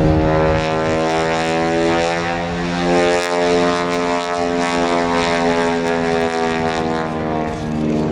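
Propeller airplane flying past, its engine and propeller making a steady drone, the pitch bending slightly about halfway through.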